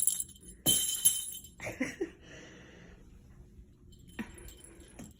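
Small bells on a cockatiel's toy jingling as the toy is shaken, loudest about a second in, then a single soft knock near the end.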